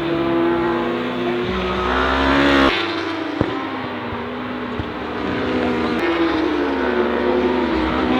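Superbike racing motorcycle engines at high revs, pitch climbing and falling as the bikes pass. The sound cuts off abruptly a little under three seconds in, followed by a sharp click, then the engine note swells and climbs again.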